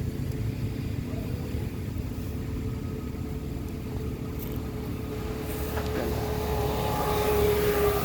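A motor vehicle's engine running steadily with a low rumble and a steady hum, growing louder near the end.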